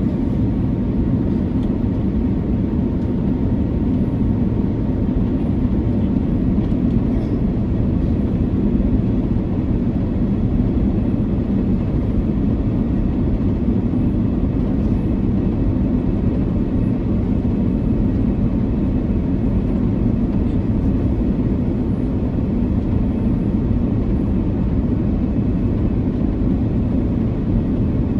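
Steady cabin noise of an Airbus A330-300 in flight on its descent: a constant low rumble of airflow and engine drone, with a faint steady whine above it.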